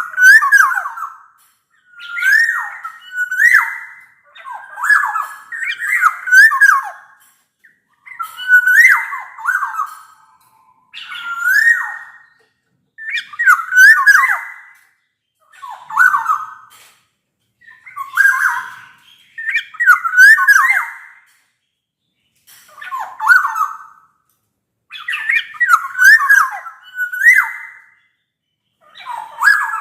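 Black-naped oriole calling over and over: loud short phrases of slurred, sliding whistles, one every one to two seconds with brief pauses between them.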